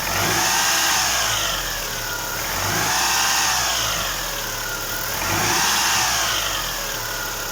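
Great Wall Hover H5 2.4 petrol engine revved up and back down three times, each swell lasting about a second and a half, then settling to idle near the end. The knocking of worn hydraulic lifters is what it is run to show.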